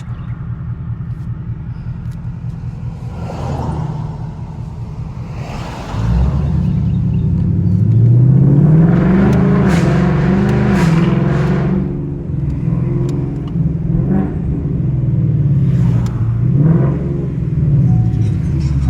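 2021 Mustang GT's 5.0 V8 through an MBRP X-pipe and axle-back muffler: a steady low exhaust rumble at first, then about six seconds in it gets much louder under acceleration. The engine note climbs and falls several times as it revs up and goes through the gears.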